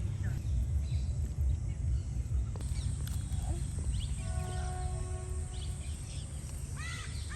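Rural outdoor ambience with a constant low rumble, birds calling, and crows cawing near the end.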